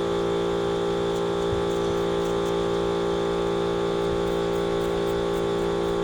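A motor or engine running steadily at an even pitch.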